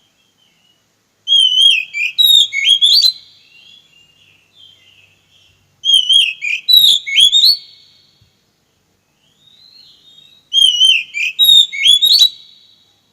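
Oriental magpie-robin (kacer) singing: three loud, near-identical phrases of whistled notes sliding up and down, about every four and a half seconds, with soft warbling in between.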